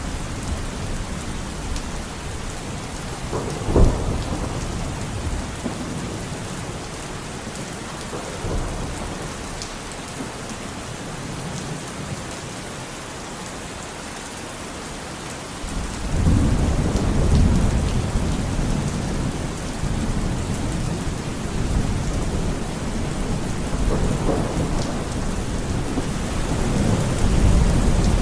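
Steady rain with thunder: a sharp crack about four seconds in, then from about halfway through a long, low rolling rumble that keeps going.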